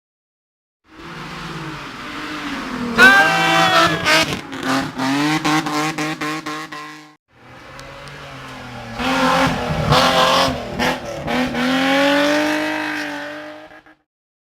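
Hill-climb competition car engines revving hard through the gears as they pass, with sharp cracks among the gear changes. There are two separate passes, each starting and cutting off abruptly.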